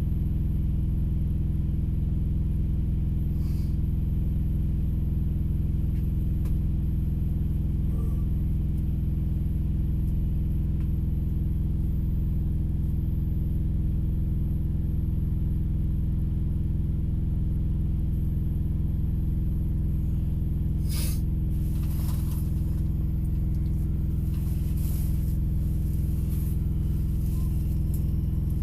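Steady low rumble of an idling vehicle engine heard from inside the cab, with a few short hisses about two-thirds of the way in and several more near the end.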